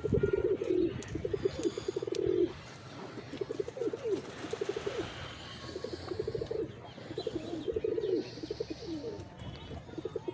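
Domestic pigeons cooing, one throaty pulsing phrase after another with hardly a break. The cooing is loudest in the first two seconds or so. A few faint high chirps come through here and there.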